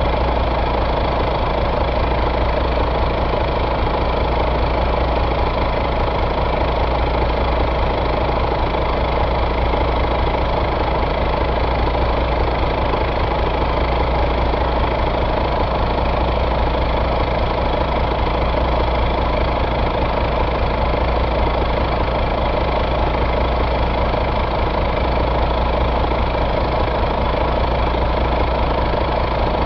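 2014 Volvo D13 inline-six diesel engine idling steadily.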